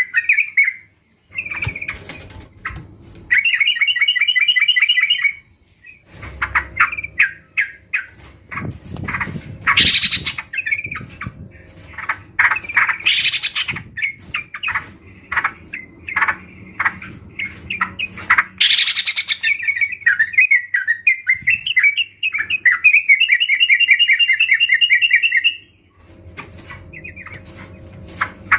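A group of sooty-headed bulbuls calling together: overlapping bubbly chirps and rapid chattering trills, broken by a couple of short pauses.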